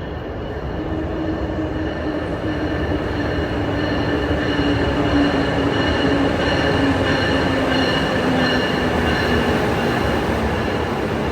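Amtrak Acela train in motion: a dense rail rumble that builds over the first few seconds, with steady high whining tones of wheel squeal and drive whine above it.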